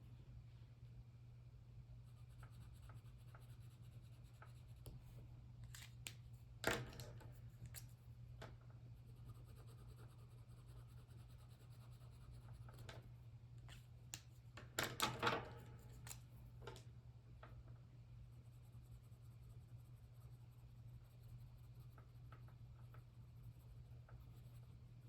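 Faint scratching of a pen coloring on paper over a steady low hum, with two brief louder paper rustles, one about a quarter of the way in and one past the middle.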